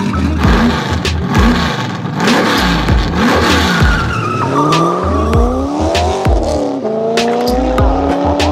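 Racing-car sound effects in a show intro: an engine revving up, dropping briefly about six seconds in as if shifting gear, then climbing again. Sharp clicks, heavy low pulses and a squeal run through it.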